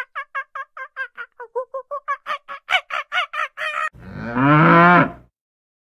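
A farm bird gives a rapid run of short honking calls, about five a second, for about four seconds. Then a cow moos once, a long call that falls in pitch.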